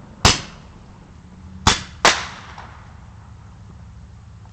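A firework on the ground exploding in three sharp bangs, the first just after the start and two more close together about a second and a half later, each dying away quickly.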